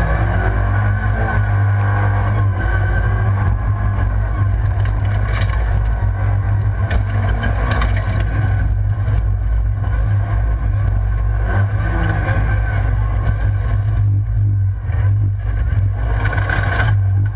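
Rallycross car's engine heard from inside the stripped cabin, run hard at high revs for the whole stretch. The pitch climbs just after the start as the car accelerates, then rises and falls with the throttle through the corners.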